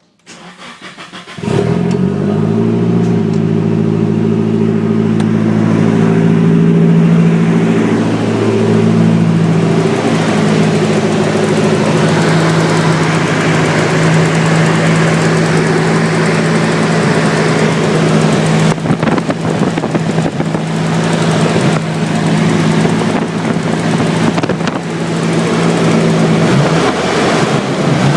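Nissan S14's SR20 four-cylinder engine cranking and catching about a second and a half in, then idling steadily after the revs settle, with a tick that the owner wonders is lifter tick.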